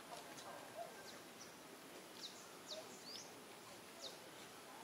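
Faint outdoor background hiss with a few brief, high chirps from small birds, each sliding downward in pitch, scattered through it.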